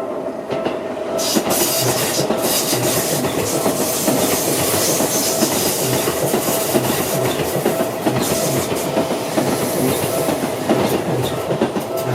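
Seibu 001 series Laview limited express passing over a level crossing: a dense rush of wheel and rail noise with repeated clickety-clack from the rail joints, starting about a second in and easing off near the end. Underneath, the crossing's electronic alarm bell keeps ringing its steady Seibu-type tone.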